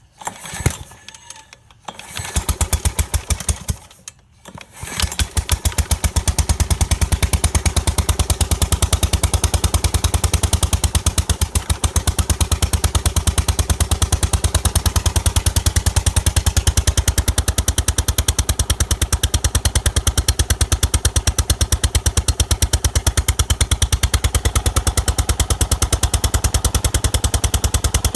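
Small Kawasaki engine on a John Deere 14SE walk-behind mower being started: a couple of short bursts in the first few seconds, a brief stop, then it catches about five seconds in and keeps running with a loud, even, rapid beat of firing pulses. This running sound is the engine problem the owner is asking about, cause unknown.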